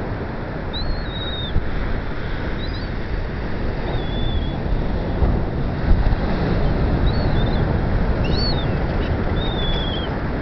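Wind buffeting the microphone with a steady low rumble, over which birds give about half a dozen short, high calls, some falling slightly in pitch.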